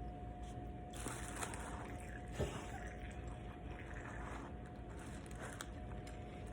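Old engine oil draining from the drain hole into a small container, a trickling pour that starts about a second in and eases off after a few seconds, with one knock partway through.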